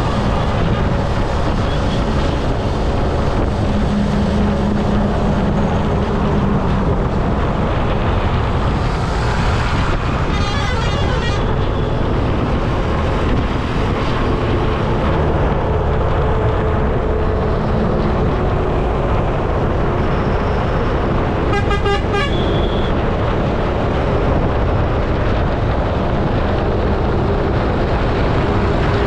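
Steady traffic and wind rush heard while riding along a road. Vehicle horns sound twice, about ten seconds in and again around twenty-two seconds, each a short rapid run of honks.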